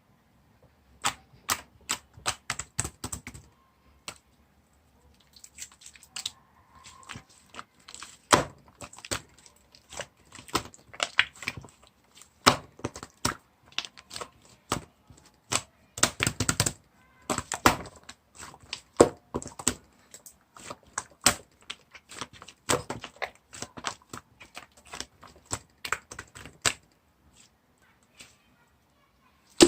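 Chocolate ice-cream slime being squished and stretched by hand, giving irregular runs of sticky clicks and pops with short pauses between them.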